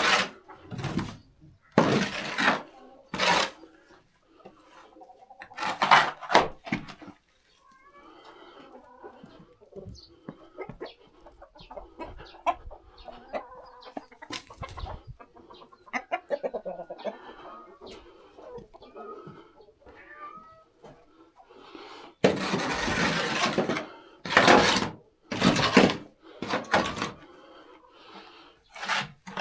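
Chickens clucking, with loud scraping strokes in the first few seconds and again from about two-thirds of the way in.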